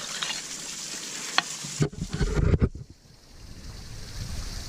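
Crackling rustle of dump debris being handled and moved, with a few sharp clicks and a brief cluster of low thumps about two seconds in, then quieter.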